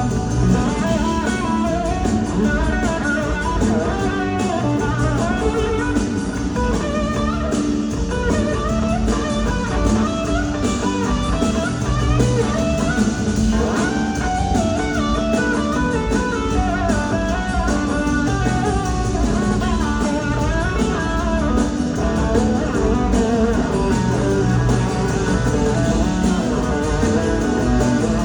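Live blues-rock band playing, led by an electric slide guitar on a Gibson SG whose notes glide up and down over a steady bass and rhythm backing.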